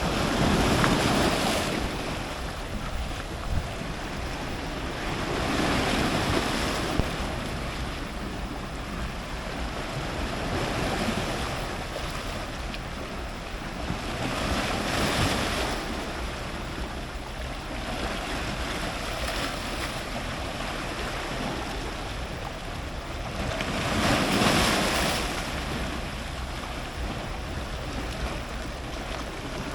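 Ocean surf breaking close by, a wave surging in and washing out every few seconds, the loudest about a second in and again near the end, over a steady low rumble of wind on the microphone.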